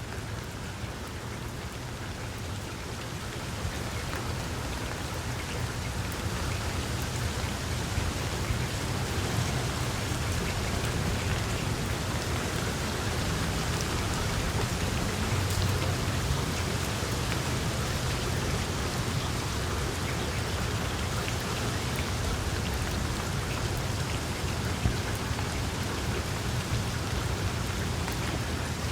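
Small wood fire crackling in a fireplace: a dense patter of little pops over a steady hiss and a low rumble, growing a little louder over the first several seconds.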